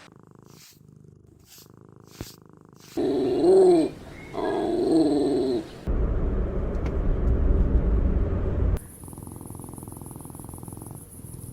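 Puppy whining in two pitched calls that rise and fall, followed by a low rumbling growl lasting about three seconds.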